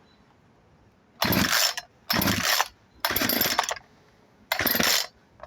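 Craftsman 36 cc two-stroke chainsaw pull-started four times, the recoil starter rasping and the engine turning over on each pull without catching. The owner traces the no-start to the fuel pickup in the gas tank having broken off.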